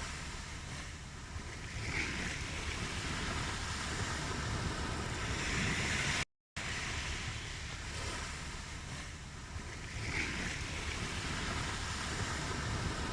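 Recorded ocean waves: a steady wash of surf rising and falling in slow swells. The recording is looped, repeating about every eight seconds, and cuts out for a moment about six seconds in.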